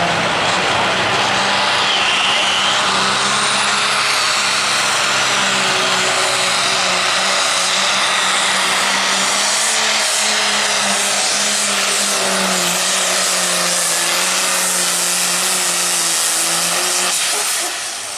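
Light limited super stock pulling tractor's engine running flat out at a steady high pitch with a loud roar during a pull. It eases off briefly near the end.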